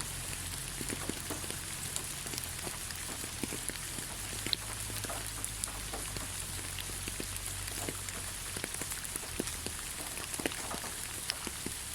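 Steady rain falling on leaves: a constant hiss with many irregular single drop ticks scattered through it.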